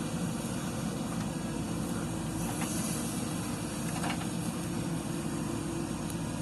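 Diesel engine of a JCB 3DX backhoe loader running steadily under work, with a short hiss near the middle.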